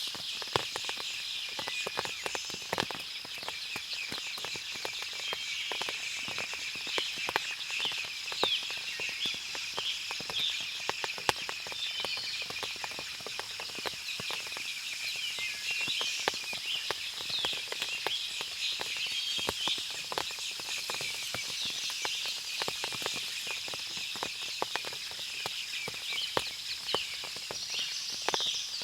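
Forest ambience after rain: water dripping from the leaves in irregular sharp ticks over a dense, steady chorus of high chirping birds and insects.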